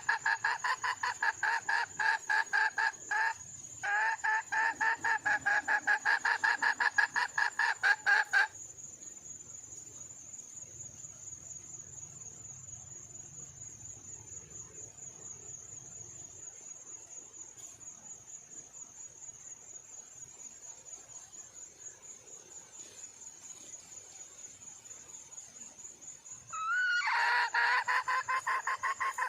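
Red junglefowl hen giving a fast run of repeated clucking calls, a mate-seeking call. The calls stop about eight seconds in and start again near the end. A steady high-pitched buzz runs underneath throughout.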